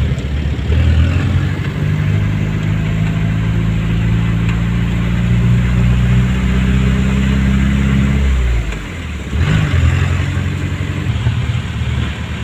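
Motor vehicle engine running under load, its pitch climbing slowly, then falling away sharply about eight seconds in as the engine comes off the throttle.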